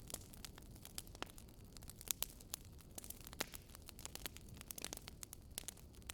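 Campfire burning: wood crackling with irregular sharp pops over a low, steady rumble of the flames, a few pops louder than the rest about two seconds in and again past the three-second mark.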